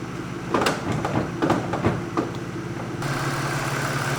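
Saloon car's engine idling steadily, with a quick run of six or seven sharp clicks about half a second to two seconds in. About three seconds in, the sound changes and a brighter hiss comes in over the idle.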